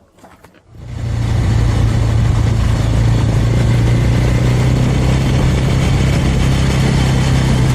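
Suzuki Thunder 250's single-cylinder engine running steadily while riding, with wind rushing over the microphone; it comes in about a second in and then holds level.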